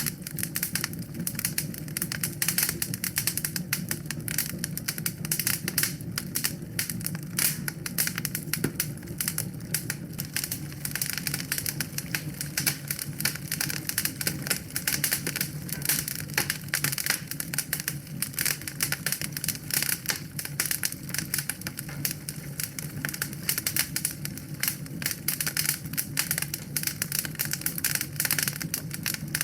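Wood fire burning in a fireplace, with dense, continuous crackling and popping over a low, steady rumble of the flames.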